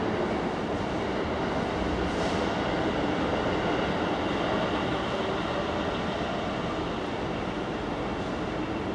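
Steady rumbling noise that holds at one level throughout, with a faint thin whine on top.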